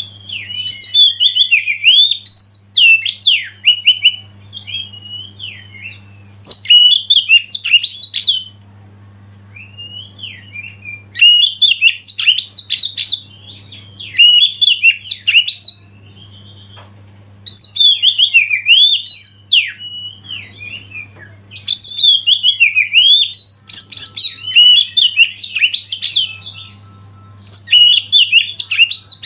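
Oriental magpie-robin (kacer) singing loud, rapid phrases of varied whistles and chirps, in bursts of a few seconds with short pauses between. A steady low hum runs underneath.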